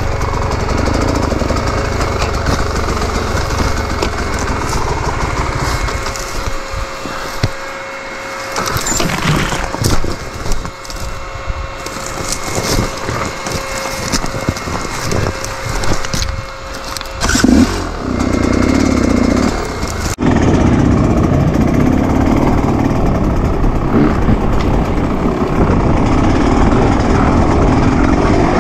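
Off-road enduro motorcycle engine running, rising and falling with the throttle, with scattered knocks and clatter. About twenty seconds in the sound cuts abruptly to a louder, steadier engine note.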